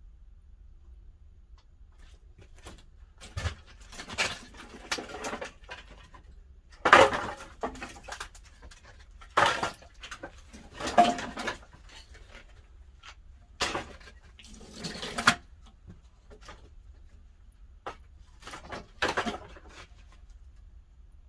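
Irregular wooden clattering and knocking in a series of short bursts, about eight or nine over some twenty seconds: split pine firewood being handled and tossed into a wood-fired pottery kiln's firebox during stoking.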